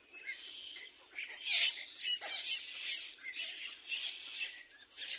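Little black cormorant chicks in the nest giving rapid, squeaky, raspy begging calls, several short calls a second in an uneven run.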